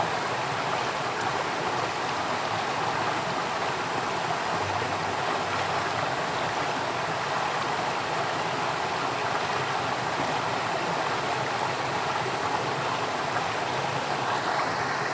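Flowing water, a steady, unbroken stream sound with no pauses or separate splashes.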